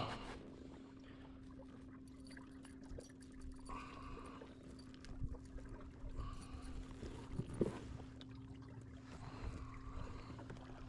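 Faint water trickling and splashing with a few small knocks, as a fish is handled in a kayak, over a steady low hum.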